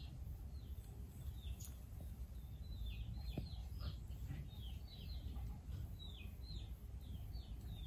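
A bird calling over and over: short, high chirps that fall in pitch, about two a second, with a low steady rumble underneath.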